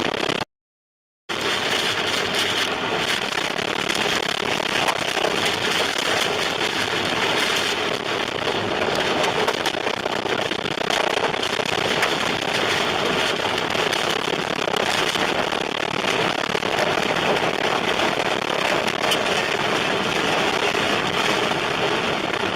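Tornado winds and wind-driven rain battering a car and the microphone: a loud, unbroken, crackling roar. It cuts out for under a second near the start.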